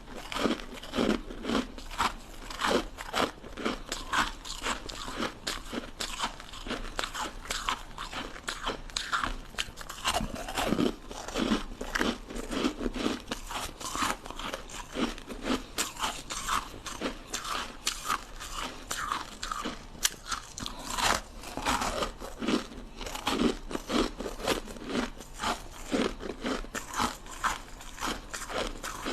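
Ice sticks being bitten and crunched between the teeth, then chewed, in a continuous run of sharp cracking crunches.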